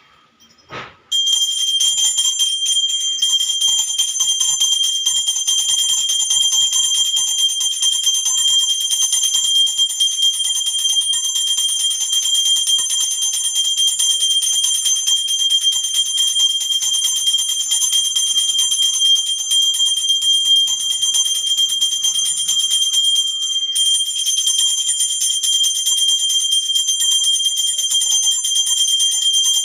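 Brass puja hand bell rung continuously, a steady high ringing with rapid clapper strikes. It starts about a second in and breaks off briefly about 23 seconds in.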